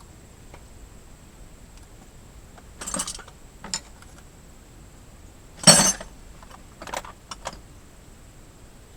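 Metal objects clinking and clattering in a handful of short, separate bursts, the loudest a little past halfway.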